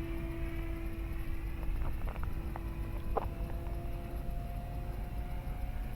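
Electric motor and propeller of a Dynam Super Cub model airplane in flight, a steady whine that drifts slightly in pitch as the plane passes, with wind rumbling on the microphone.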